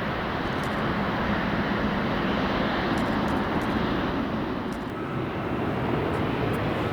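Airliner engines heard close by, a steady rushing noise that dips slightly about five seconds in.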